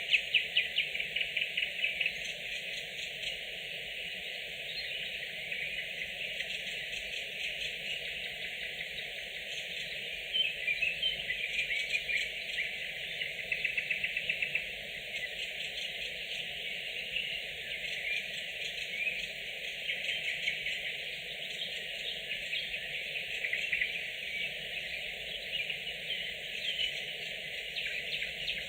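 Nightingales singing at night: loud phrases of rapid repeated notes stand out near the start and again about halfway through. They rise over a steady, dense chorus of song.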